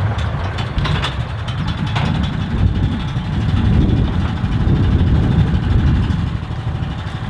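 Narrow-gauge train running, a heavy low rumble with a few sharp clicks in the first two seconds.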